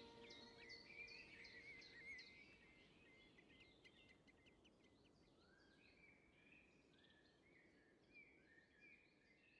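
Faint outdoor birdsong: many short, quick calls and rising whistled notes from several birds, slowly fading away.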